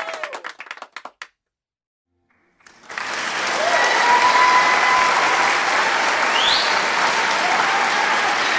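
A few scattered claps dying away, a second and a half of silence, then a large crowd's applause starting about two and a half seconds in and swelling to steady, dense clapping, with whistles over it.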